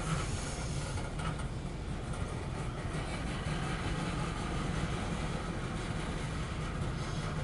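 Loaded coal train rolling past: a steady rumble of freight cars on the rails with a constant low hum.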